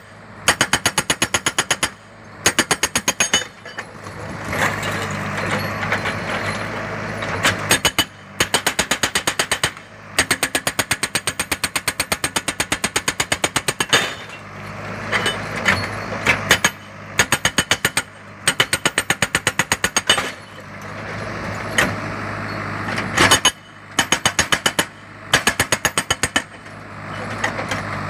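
Hydraulic breaker on a JCB backhoe loader hammering in repeated bursts of about a second or two, at roughly ten blows a second, with the loader's diesel engine running between bursts and swelling twice in longer stretches.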